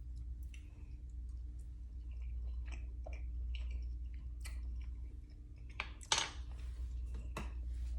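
A person chewing a mouthful of creamy curried chicken salad, tasting it for seasoning: soft, irregular wet clicks and crunches, with a sharper click about six seconds in.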